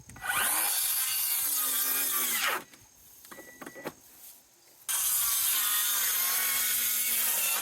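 Power drill driving into wood twice, each run lasting about two and a half seconds, with the motor's whir dropping slightly in pitch as it takes the load. A few small clicks fall in the pause between the runs.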